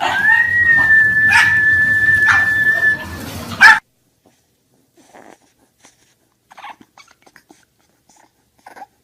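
A dog whining: one long, high, steady whine held for about three seconds, with a few knocks over it. A loud knock follows and the sound then cuts off suddenly, leaving only faint small sounds.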